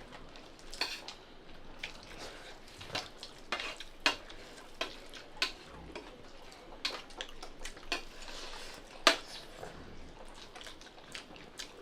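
Plates and eating utensils clinking and scraping as a meal of curry and rice is eaten: irregular small knocks, roughly one a second.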